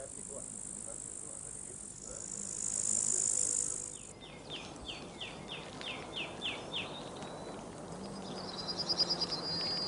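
Rural outdoor ambience. A high insect buzz fills the first few seconds and stops about four seconds in. A bird then sings a run of about eight quick descending notes, and a rapid high trill follows near the end.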